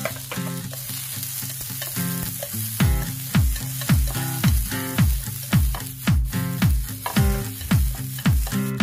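Julienned carrots sizzling in hot oil in a frying pan as they are stir-fried and tossed with wooden chopsticks. Background music plays throughout, and a steady beat of low thuds, about two a second, joins about three seconds in.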